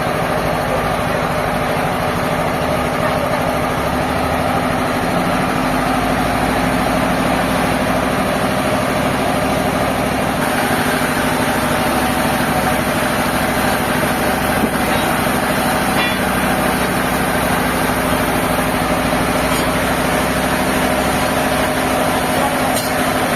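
Sawmill machinery running steadily, an engine-like drone with a constant hum that shifts slightly about ten seconds in.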